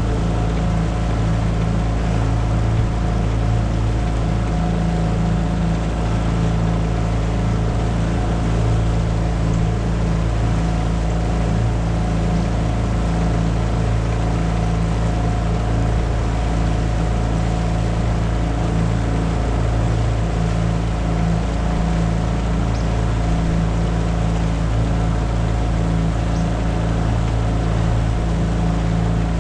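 Tohatsu 9.8 hp four-stroke outboard motor running at a steady, even speed, pushing a small boat along.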